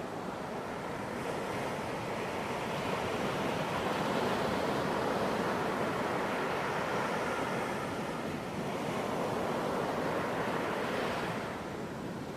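Ocean surf washing onto a beach: a steady rush of breaking waves that swells and eases, building through the middle, dipping briefly, surging again, then falling back near the end.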